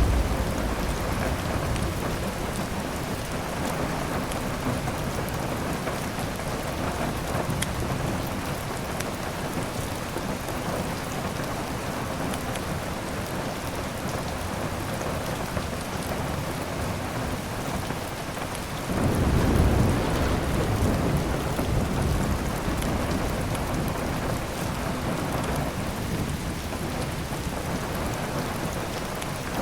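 Steady heavy rain with rolling thunder. A rumble is fading at the start, and a new roll breaks in suddenly about two-thirds of the way through and dies away over several seconds. A few faint fireplace crackles sound over the rain.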